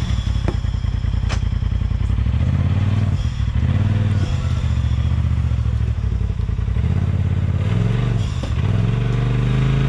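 Side-by-side UTV engine revving up and falling back in repeated bursts as it crawls over rocks, with a couple of sharp knocks early on from the rocks or chassis.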